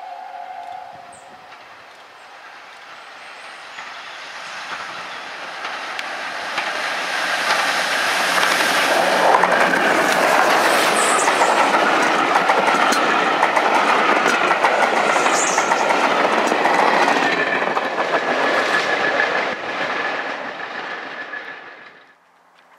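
A passenger train of coaches passing close by on jointed track. The running noise builds up, stays loud with rapid clickety-clack from the wheels over the rail joints, then fades as the last coaches go by.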